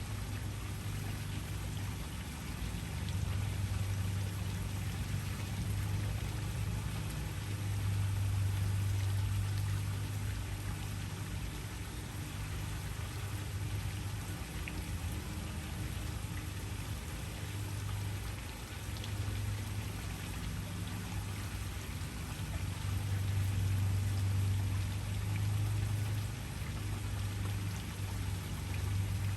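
Waterfall: a steady rush of falling water with a deep rumble underneath that swells and eases every few seconds.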